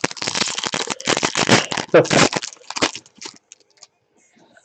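Crinkling and rustling of a trading-card pack wrapper and cards being handled: a dense run of crackles that thins out to a few light ticks after about three seconds.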